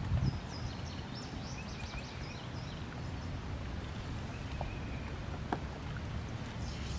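Outdoor ambience: a steady low wind rumble on the microphone, with faint high bird chirps in the first couple of seconds and two soft clicks later on.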